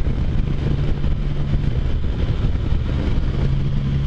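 Can-Am Spyder F3's Rotax 1330 inline three-cylinder engine running at a steady cruising speed, its note holding one pitch, over a low rumble of wind and road noise.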